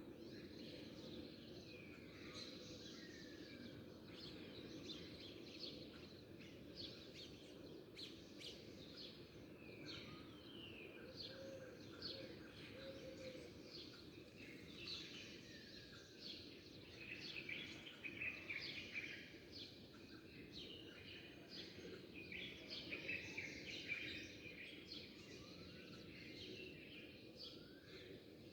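Many small birds chirping and twittering at once, short high calls and falling notes overlapping, over a steady low background hum. The chorus gets busier and louder past the middle.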